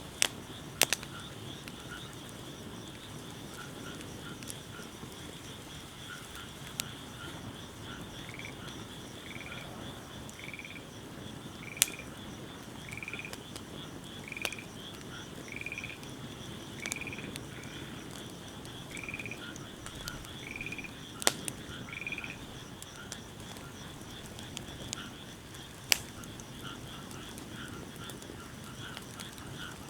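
Wood fire burning, with a few sharp pops from the burning wood, while a frog calls in a run of short, slightly rising croaks about once a second through the middle, over a steady high-pitched background trill.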